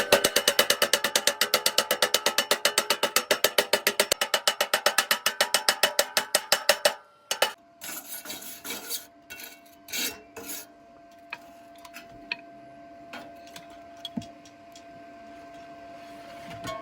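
Rapid, even scraping strokes on thin steel square tube, about ten a second, typical of cleaning slag off a fresh weld by hand. The strokes stop about seven seconds in, and scattered light clicks and taps follow.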